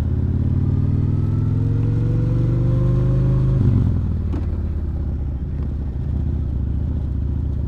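Kawasaki Vulcan Nomad 1600's V-twin engine pulling with rising revs for about three and a half seconds, then dropping off abruptly and running on at steady lower revs.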